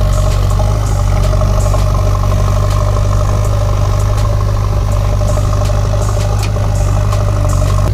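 A steady, engine-like drone, like a tractor running at idle, with frequent light clicks and clatter over it.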